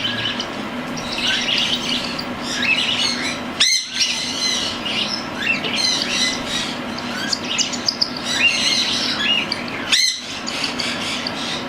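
Cockatiel chicks near weaning chirping with many short, high, rising chirps, the food-begging calls of chicks being hand-fed. A steady low hum runs underneath, and the sound drops out briefly twice.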